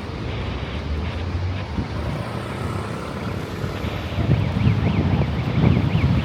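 Outdoor city ambience: a low rumble of passing traffic that swells about four seconds in, with wind buffeting the microphone.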